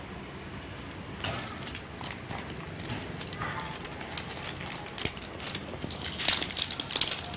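Plastic wrapping of a toy-surprise layer crinkling and crackling as it is torn and pulled open by hand, in a run of irregular small crackles.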